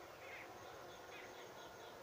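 Faint, distant bird chirps, a couple of short calls about a second apart, over a quiet steady background hiss.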